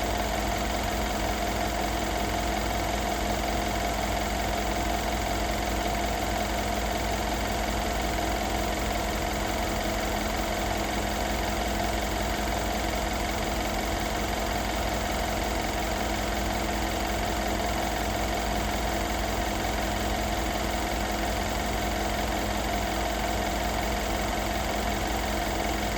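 2016 Mercedes-Benz SL550's twin-turbo V8 idling steadily after a cold start, with an even, unchanging engine note and no revving.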